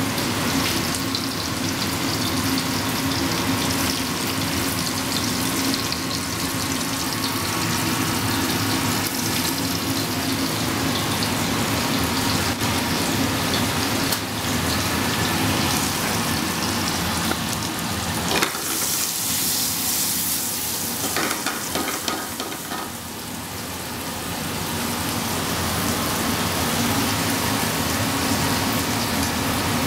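Guanciale sizzling steadily as it fries in a pan over a gas flame, with a knock and a brief louder hiss a little past halfway.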